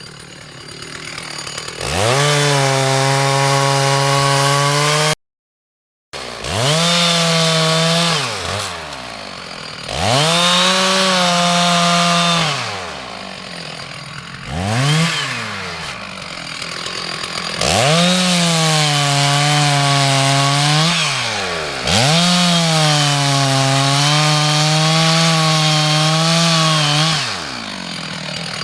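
Two-stroke chainsaw revved to full throttle again and again, in runs of a few seconds, dropping back to idle between them. The pitch sags and recovers under load as it cuts wood. The sound cuts out completely for about a second, five seconds in.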